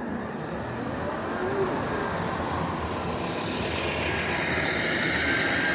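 Road traffic: a passing vehicle's engine and tyre noise, growing louder towards the end.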